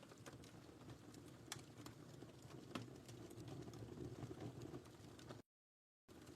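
Wood fire crackling softly: scattered sharp pops and ticks over a low steady rumble. The sound drops out completely for about half a second near the end.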